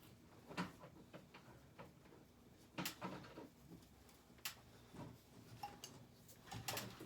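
Scattered light clicks, knocks and metallic clinks, about a dozen, irregularly spaced, from tools and metal hanging hardware being handled during installation of a ceiling air-conditioner unit.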